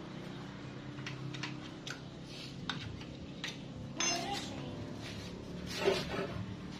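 Metal tools and parts clinking and tapping a few times, louder about four and six seconds in, over a steady low hum.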